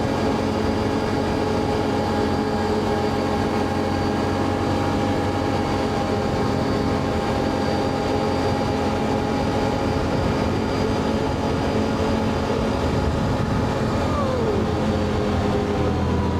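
Can-Am Outlander ATV engine running steadily under way, with a steady drone. About two seconds before the end, part of the note glides down in pitch, as when the rider eases off.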